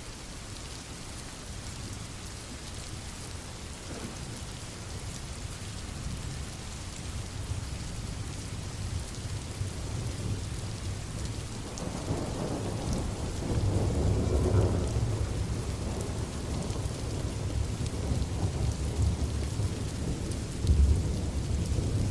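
Steady rain hissing with thunder rumbling under it, growing louder. A long rolling peal of thunder builds about halfway through, and a sharper low clap comes near the end.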